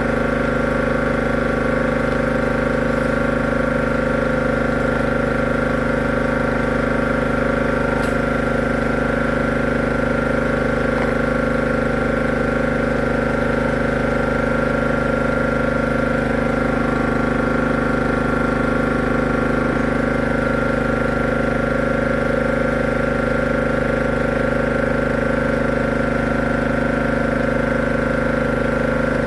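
A machine's motor running steadily with an unchanging hum of several steady tones.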